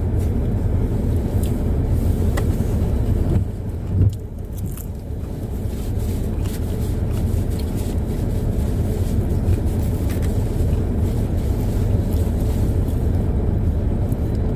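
Steady low rumble of a car heard from inside the cabin, with a few faint clicks and a short thump about four seconds in.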